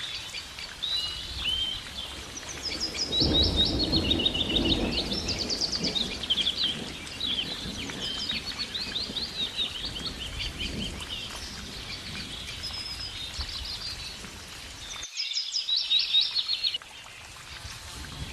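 Several songbirds chirping and singing, with quick trills of repeated high notes. A low rumble joins a few seconds in, and the background changes abruptly near the end as the chirping goes on.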